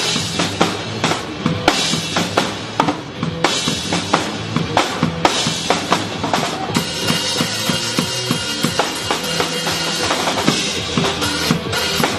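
Drum kit played in a steady, driving beat of kick drum, snare and cymbals, over a pop backing track.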